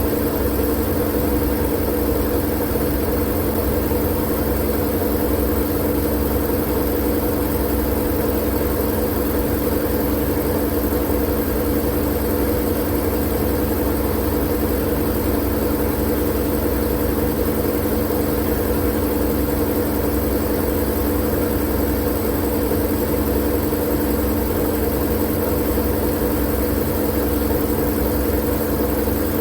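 Steady white-noise sleep sound: a machine-like hum with a deep rumble beneath it, perfectly even and unchanging.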